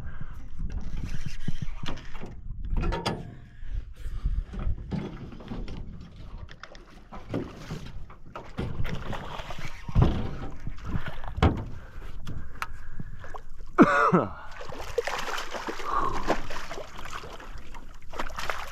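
Knocks and thumps against a fishing boat as a just-caught redfish is handled on board, with some water splashing. A short falling tone comes about three-quarters of the way through, and water runs or pours near the end.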